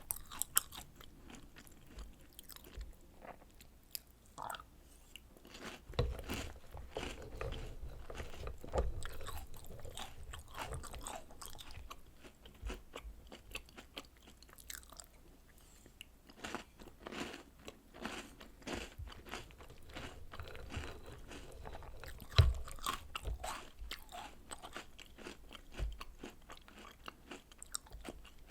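Close-miked crunching and chewing of chocolate cookies, biscuit sticks and cereal soaked in milk: irregular crisp bites and chews, with sharper bites about 6, 17, 22 and 26 seconds in.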